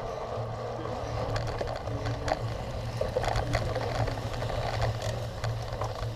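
Bicycle rattling and clicking as it is ridden over rough ground, scattered sharp clicks over a steady rumble of wind and tyres.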